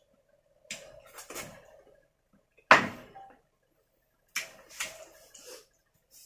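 Kitchen knocks and clatters: about six separate sharp sounds, the loudest about three seconds in, over a faint steady hum.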